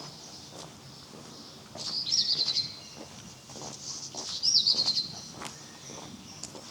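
A small songbird sings two short phrases about two and a half seconds apart, each a quick looping note running into a rapid trill. Faint, regular footsteps on pavement run underneath.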